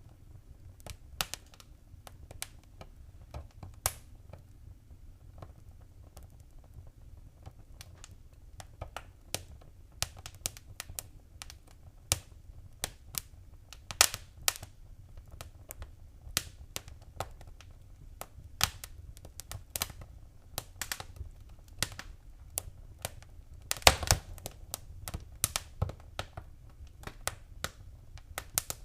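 Fire crackling in a fireplace: irregular sharp pops and snaps over a low steady rumble. The pops are sparse at first, come more often after about ten seconds, and peak in a loud cluster near the end.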